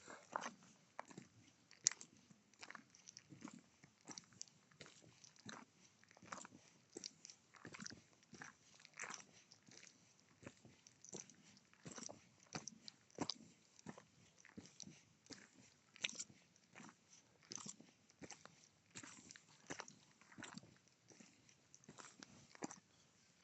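Footsteps crunching on a loose gravel path, faint, with a short irregular crunch about every half second.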